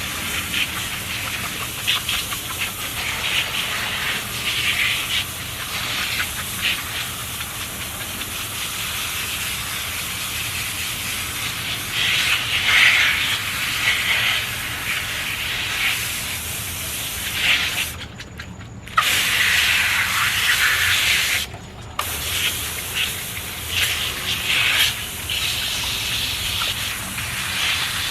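Water running and spraying, a steady hiss that stops briefly twice in the second half before starting again.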